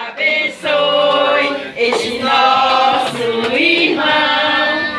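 A group of men and women singing together in chorus, holding long notes.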